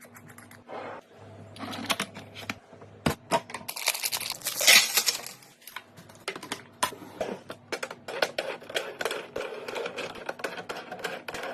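Fridge restocking: a run of light clicks and taps as containers and packaged items are handled and set into place, with a louder rustle about four to five seconds in.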